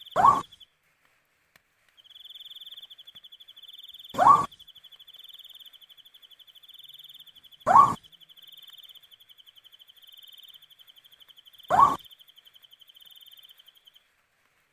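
Owl giving a short call that rises in pitch, four times at roughly four-second intervals, over a steady high-pitched pulsing cricket trill.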